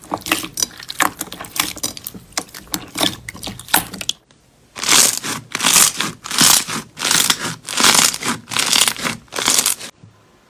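Slime being squeezed and pressed by hand, first as a dense run of crackles and pops for about four seconds. After a brief break comes a series of longer crunchy squishes, roughly two a second, which stop shortly before the end.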